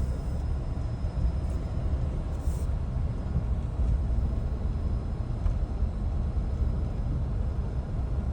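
A Jeep driving along a road: a steady low rumble of engine and road noise.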